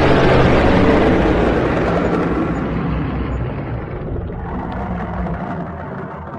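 Designed dragon roar sound effect: one long, loud, rumbling roar that slowly dies down.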